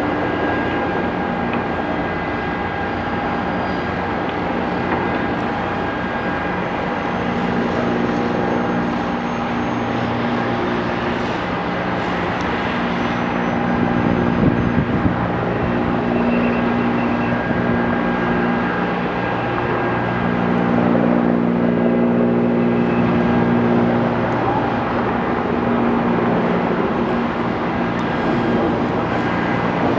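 Steady engine drone made of several held humming tones that swell and fade gently, with a few brief louder spikes about halfway through.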